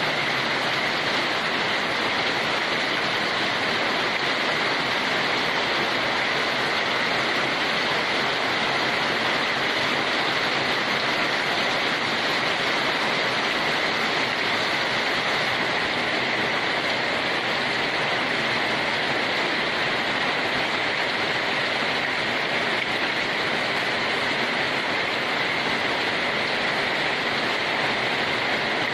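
Steady, even rain noise with no separate drops or other events, as in a continuous rain recording for sleep.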